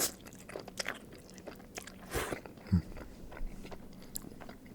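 Close-up mouth sounds of someone chewing a mouthful of ramen noodles: small wet clicks, with a short noisy burst about two seconds in.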